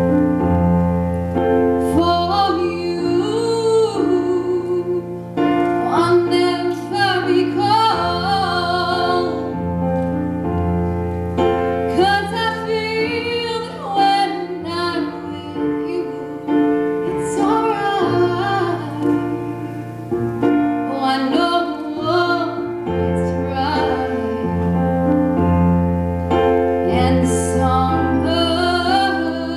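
A female vocalist singing a slow song over piano accompaniment, with long held piano chords and a wavering vibrato on her sustained notes.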